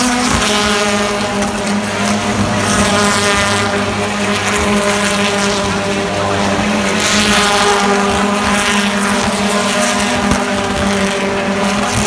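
BTCC touring car engines, 2.0-litre turbocharged four-cylinders, running hard at a steady high pitch. A surge of rushing hiss comes about seven seconds in.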